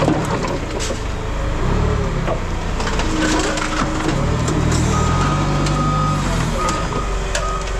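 Scrap baler compressing a load of scrap metal: a low machine drone that swells and fades, with cracks and creaks of metal being crushed. A thin whine comes and goes in the second half.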